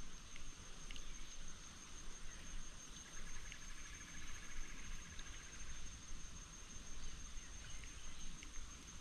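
Insects droning steadily in high, continuous tones, with a brief rapid trill about three seconds in.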